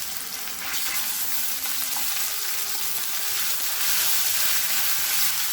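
Ginger-garlic paste frying in hot oil with chopped onions, green chillies and curry leaves in a pan: a steady sizzle.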